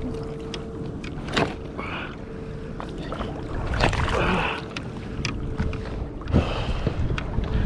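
Water splashing and sloshing against a kayak, with several sharp knocks and clicks on the hull and gear, and a faint steady tone.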